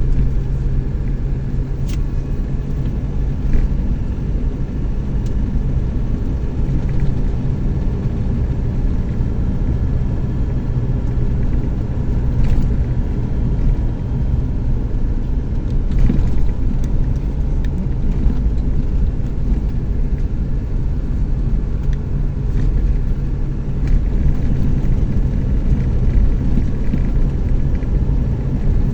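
Chevrolet S10 pickup driving at a steady speed: an even, low engine and road rumble.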